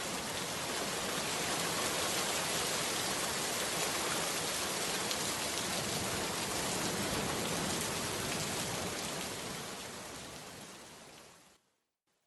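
Steady rain falling, an even hiss with fine pattering drops, fading out near the end.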